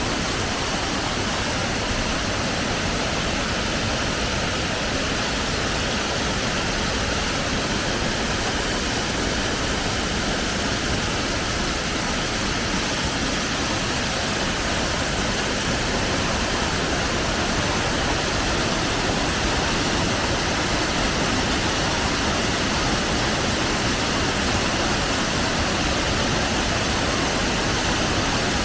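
Waterfall: a loud, steady rush of falling water that holds even throughout.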